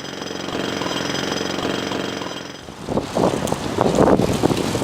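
An engine runs with a steady hum. About three seconds in, loud, irregular rumbling noise takes over.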